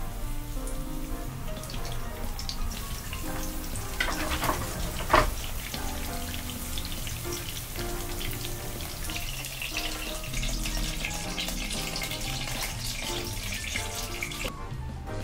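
Battered chicken breast pieces shallow-frying in oil, sizzling and crackling steadily, with one sharp pop about five seconds in, over background music. The crackle falls away near the end.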